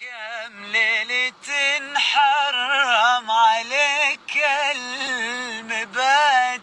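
Male voice singing an Arabic song in long ornamented phrases with wavering pitch and a few short breaths between them.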